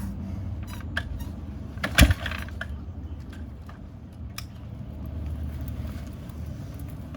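Kick-start attempt on an S&S Shovelhead motorcycle engine that is not catching: a low rumble with scattered clicks, and one loud sharp thump about two seconds in.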